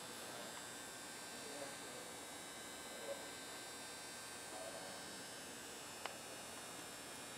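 Faint steady hum and hiss, with a few faint short sounds and a small click about six seconds in.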